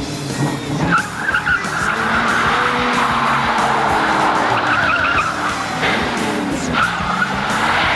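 1973 Ford Thunderbird's 460 V8 revving hard while the rear tyres spin and squeal in a burnout; the squeal builds about a second in and then holds steady.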